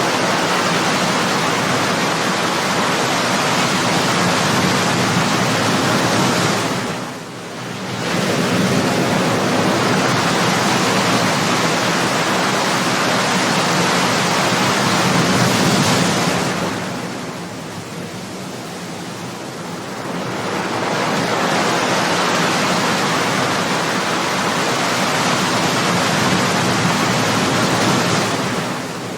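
Ocean waves breaking and washing in as a steady rush of surf that comes in long swells. It dips briefly about seven seconds in, sinks for a few seconds after the middle, builds again, and falls away near the end.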